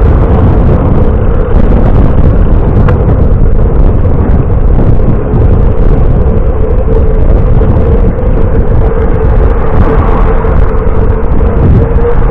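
Steady, loud rumble of wind and road noise from a moving bicycle ride, with a constant hum.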